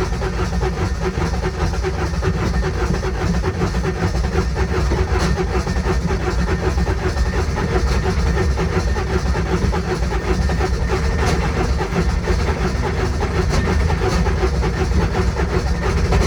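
Electric starter cranking a diesel UTV engine for a long stretch without it catching: a hard start, which the owner takes for glow plugs not working.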